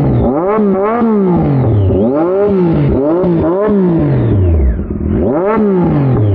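Triumph Daytona 675R three-cylinder engine with an aftermarket Torque exhaust, revved repeatedly while standing: about five throttle blips, each note climbing sharply and falling back toward idle.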